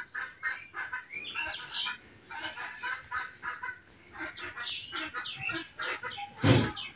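Birds calling in the background: a steady run of short, repeated calls, with one louder burst about six and a half seconds in.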